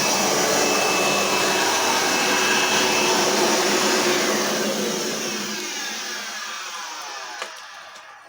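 Eureka Powerline Gold 10-amp vacuum cleaner running steadily, then switched off about four seconds in, its motor whine falling in pitch and fading as it spins down. A small click near the end.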